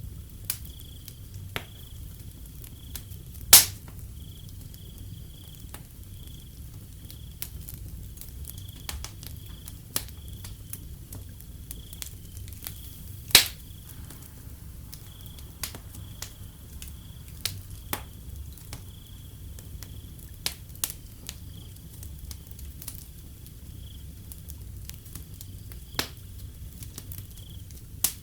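Wood fire crackling with irregular sharp pops, two of them much louder than the rest, a few seconds in and about halfway. Crickets chirp steadily in a high pulsing trill under a low rumble from the fire.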